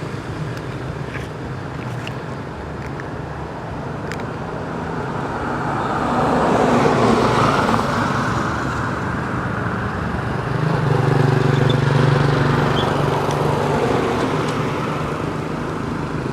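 Road traffic: motor vehicle engines running, with a vehicle passing loudest about seven seconds in and another engine hum growing louder from about ten seconds in.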